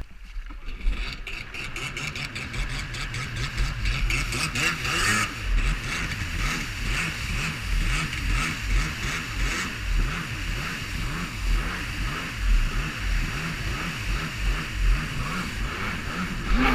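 Jet ski engine picking up about a second in and then running steadily at speed, with a brief louder stretch around four to five seconds in.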